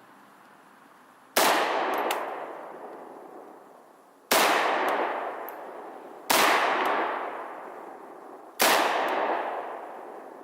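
Four gunshots at an uneven pace, roughly two to three seconds apart, each ringing out and fading over a couple of seconds, with a faint sharp tick about half a second after each shot.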